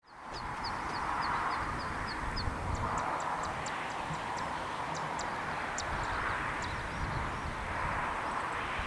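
Steady outdoor hiss and rumble, fading in at the start. Over it a small bird gives a quick series of high chirps, about four a second, for the first two or three seconds, then a run of sharp, high clicking notes.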